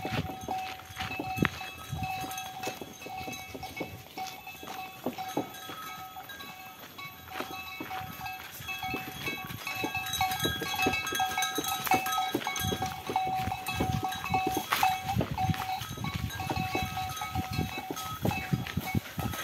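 Bells on a bullock cart clinking and jangling, with a steady ringing tone and many irregular small knocks and clatters that get busier about halfway through.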